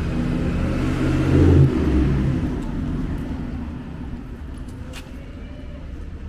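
A motor vehicle passing close by, its engine loudest about a second and a half in and then fading away.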